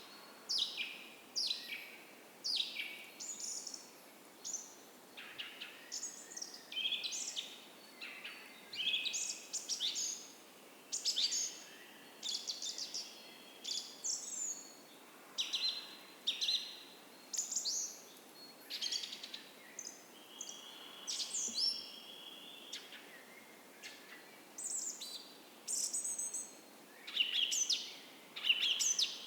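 A dawn chorus of several songbirds: many short chirps and quick falling whistled phrases, one after another, with the odd longer held note, over a faint steady hiss of a creek.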